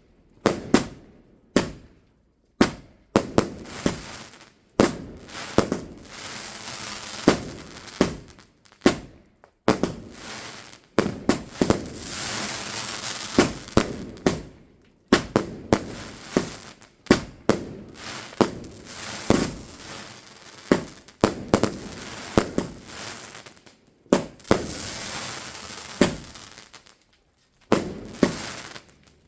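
Fireworks going off in an irregular run of sharp bangs, about one or two a second, with spells of crackling hiss between them.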